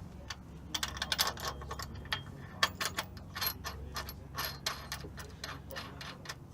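Steel timing chain links clicking and clinking against metal as a new chain is handled and fitted onto the engine's sprockets: many irregular light clinks.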